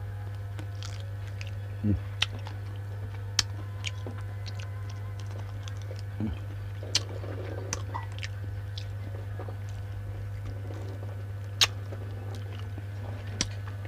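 Close mouth sounds of a person chewing cooked wild duck meat off the wing and bones, with wet smacking and scattered sharp clicks and crunches. A steady low electrical hum runs underneath.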